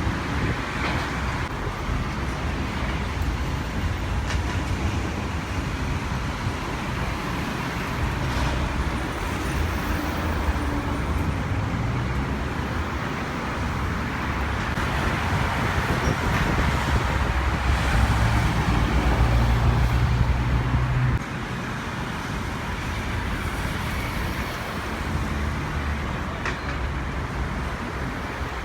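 Steady engine and traffic noise with a low rumble, slowly swelling to a peak about twenty seconds in, then dropping suddenly.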